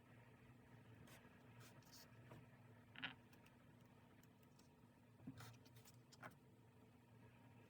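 Faint scratches and light taps of paper and stationery being handled during diary decorating, a few scattered strokes with the clearest about three seconds in and a small cluster near the end.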